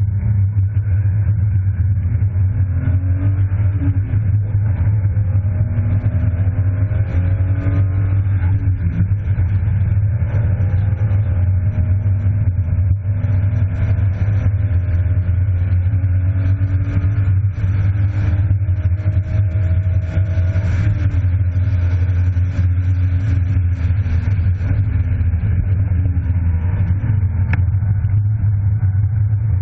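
BMW E36 325i's straight-six engine heard from inside the car at track pace. The revs climb and fall again and again as the car accelerates and slows through the corners, over a steady low drone.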